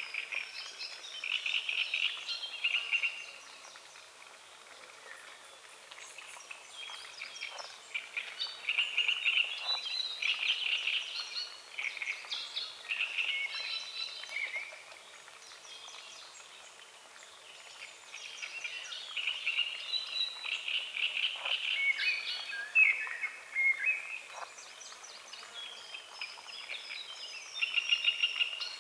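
Chorus of frogs croaking at a lake at dawn, in bouts of rapid pulsed calls lasting a few seconds each, with birds singing in the background.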